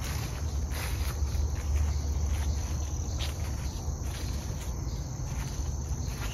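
Steady high-pitched chirring of an insect chorus in late-summer woodland, continuous without a break, over a steady low rumble.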